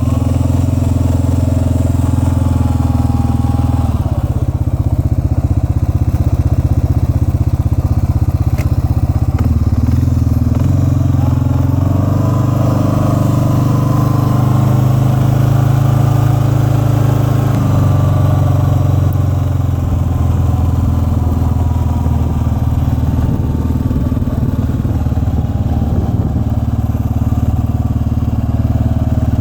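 An engine running close by, loud and steady, its pitch shifting a few times as the load or throttle changes.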